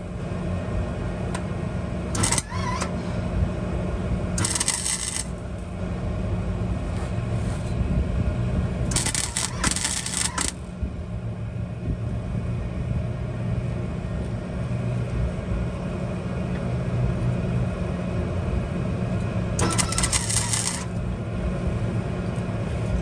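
Metalwork on a truck's exhaust delete pipe: short bursts of high-pitched hiss or crackle, about four of them, with metallic clinks and scraping over a steady low hum.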